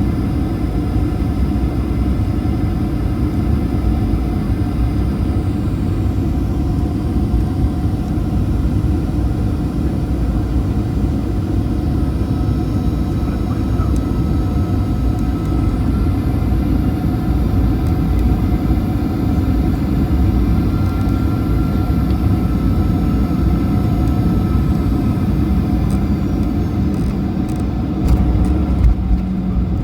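Steady cabin noise inside a Boeing 737-800 in flight: a low rush of airflow and engine noise, with a few faint steady tones. It grows briefly louder and uneven near the end.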